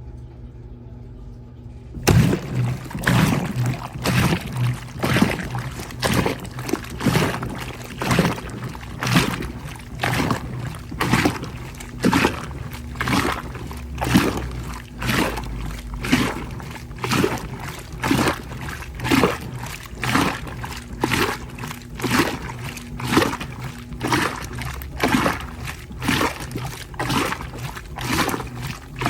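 Koblenz 15 kg washing machine in its wash cycle: water sloshing in regular surges about once a second over a steady low hum. The sloshing starts about two seconds in.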